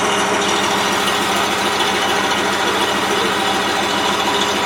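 Diesel engine of a DAF YA 616 army truck idling steadily close by, with a fast, even clatter.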